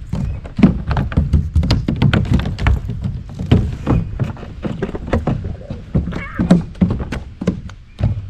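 Rapid, irregular knocks and thuds on a plastic fishing kayak as a small, freshly caught fish flops and is unhooked by hand.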